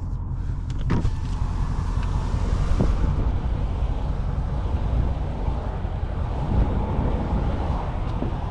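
Dodge Scat Pack's 392 HEMI V8 with a mid-muffler delete, its exhaust rumbling steadily while the car drives, mixed with road noise.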